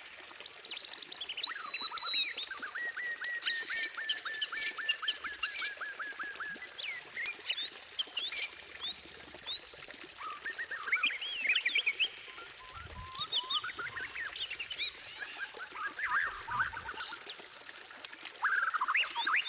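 White-rumped shama (murai batu) song: a varied stream of loud whistles, sharp high notes and quick sweeps, with a long run of rapid repeated notes starting about three seconds in.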